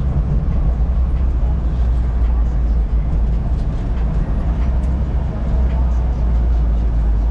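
BMW E36 drift car on the move, heard from inside the cabin: a steady, loud low drone of engine and road noise.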